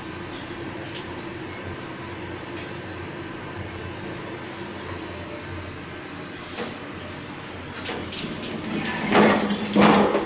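Recorded rainforest wildlife sounds played in an Otis Elevonic 401 elevator cab: a bird's short, high chirping call repeated about three times a second, over a steady hum. Several louder knocks come near the end.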